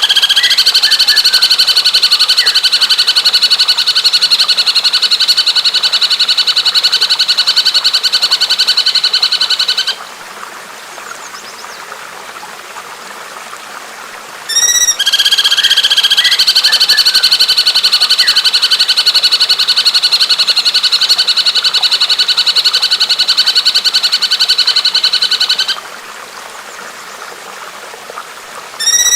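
A recorded bird song: a very fast, even trill held for about ten seconds, opened by a few quick rising notes. It comes twice, and a third begins right at the end. Between the trills, running water is heard as a steady hiss.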